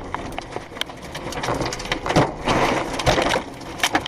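Tornado wind and rain with debris clattering: a loud noisy rush full of sharp knocks and rattles, growing louder about two seconds in.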